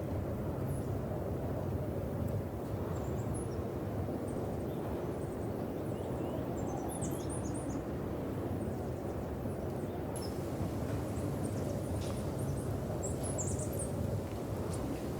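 Steady low rumble of wind, with a few faint, high, short bird chirps about halfway through and again near the end.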